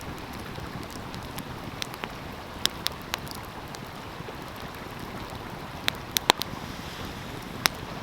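Stream water rushing steadily under a crackling wood fire, whose sharp pops and snaps come in small clusters, loudest about six seconds in.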